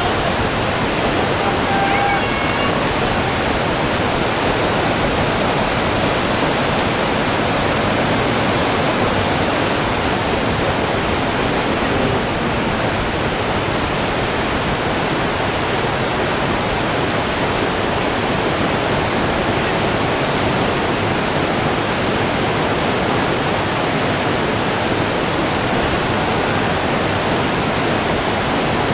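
Whitewater of a two-step river rapid rushing steadily and loudly.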